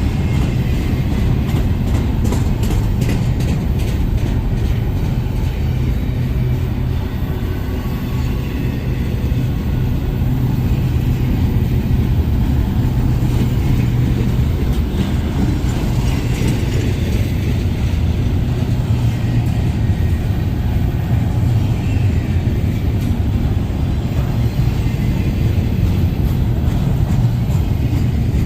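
Freight train rolling past: a steady low rumble, with bursts of clacking from wheels over rail joints in the first few seconds and again near the end.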